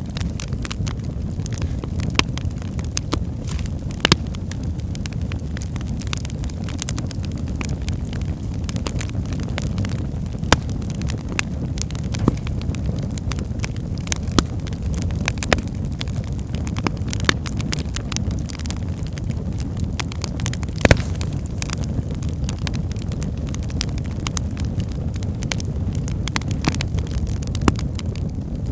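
Wood fire burning in a fireplace: a steady low rumble of flames with irregular crackles and sharp pops from the logs, one louder pop about three quarters of the way through.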